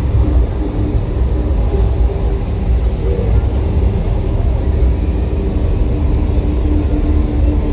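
Deep, steady rumble from the volcano show's sound effects, with faint held tones above it that come and go.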